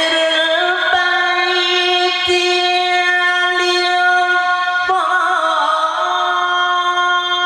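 A male qari's solo voice holding one long, high melodic note in Quran recitation, ornamented with brief breaks and a slight shift in pitch about two thirds through.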